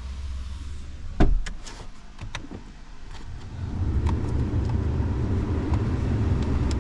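Sounds from a 2016 Ford F-250 pickup: a single sharp thump about a second in, then a few light clicks, then a steady low hum that starts about three and a half seconds in.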